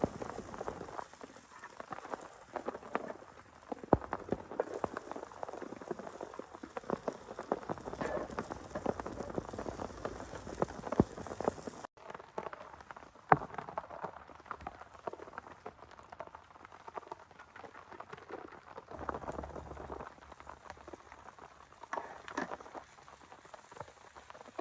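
Rain falling, with many separate drops tapping irregularly close by on a surface. The sound breaks off abruptly about halfway through and picks up again.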